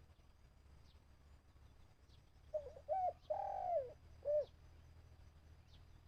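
Spotted dove cooing: one phrase of a few short low notes and a longer drawn-out coo, beginning about two and a half seconds in and lasting about two seconds. Faint short high chirps of small birds are heard throughout.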